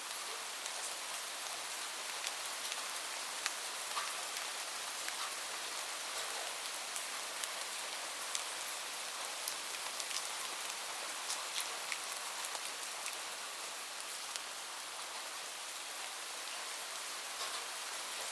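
Steady rain: an even, high hiss with many sharp ticks of single drops scattered through it.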